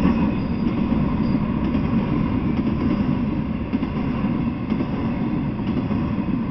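Intermodal freight train rolling past: flatcars carrying semi-trailers and containers make a steady rumble of steel wheels on rail, with faint scattered clicks.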